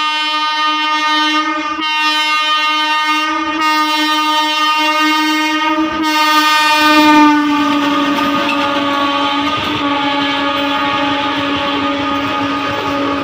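WAG-7 electric locomotive's horn sounding long, with a few short breaks. About seven seconds in the horn dips slightly in pitch, and the rumble and wheel clatter of the passing train join it under the continuing horn.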